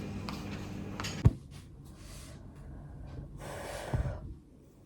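A sharp click about a second in, then two loud breaths, each a breathy rush of air, the second ending with a soft low thud.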